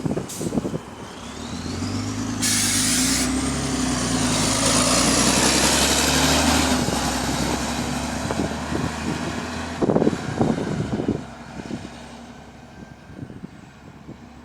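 Volvo B9TL bus's six-cylinder diesel engine pulling away under load, building to full power with a rising whine, then easing off. A short air hiss comes about two and a half seconds in and a few knocks near the ten-second mark. The bus has an exhaust leak.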